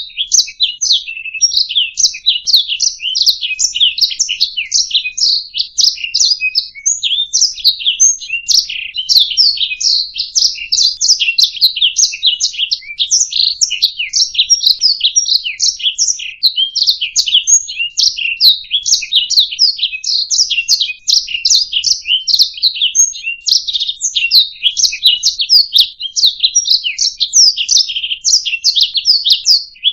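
Domestic canary singing a continuous, unbroken song of rapid high-pitched trills and chirps.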